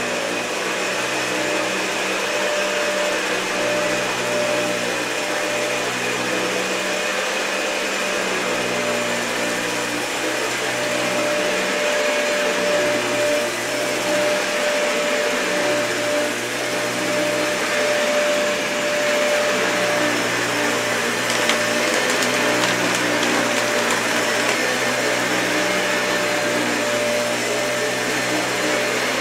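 Dyson vacuum cleaner running steadily over thick, matted carpet, its motor noise carrying a steady whine, with slight swells in loudness as it is worked back and forth. A few faint crackles come about two-thirds of the way through.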